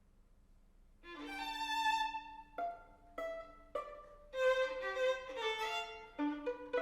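A string quartet of two violins, viola and cello begins playing about a second in: held notes, then a series of short, sharply attacked notes. The instruments are meant to imitate the calls of kakapo parrots.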